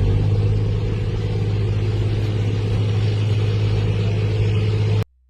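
Loud, steady low rumble with a strong hum under a wash of noise, cutting off suddenly about five seconds in.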